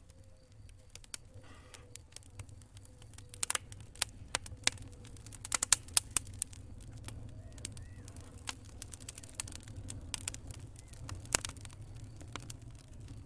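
Wood fire crackling in a fireplace: irregular sharp pops and snaps, several in quick succession about six seconds in, over a low steady rumble of the flames.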